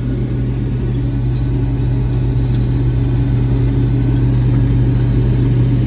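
Combine harvester running steadily through the crop, its engine and machinery giving an even low drone.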